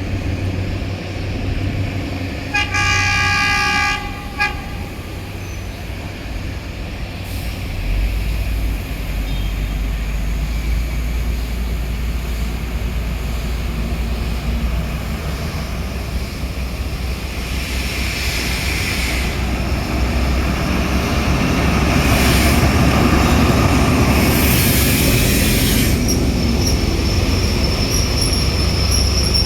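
A train horn sounds one blast of about a second and a half, a few seconds in. Then a steady low train rumble comes in and builds, with spells of hissing noise later on.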